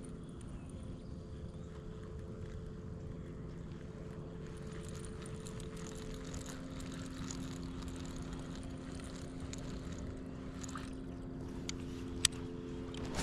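A steady motor hum over a low rumble, its pitch shifting slightly about halfway through, with a single sharp click near the end.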